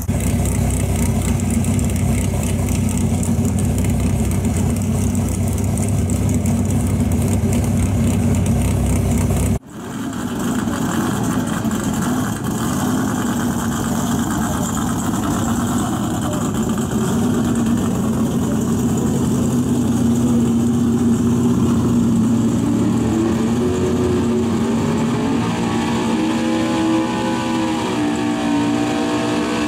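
Super Street Gas 4x4 pickup's engine running hard under load on a pulling sled. An abrupt cut about a third of the way in, then the engine note climbs in pitch near the end.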